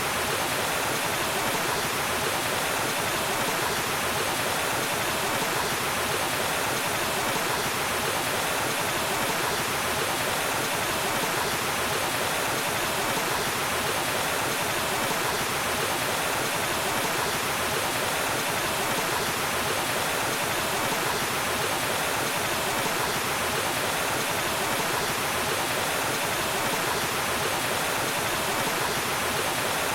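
Waterfall: water falling and rushing in a steady, unbroken hiss with no change throughout.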